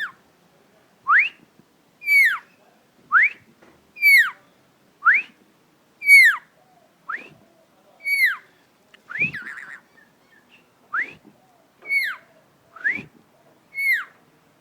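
Whistled exchange between a person and a pet rainbow lorikeet: a clean rising whistle answered by a falling whistle, about once a second, over a dozen times. A short rougher noise breaks in about nine seconds in.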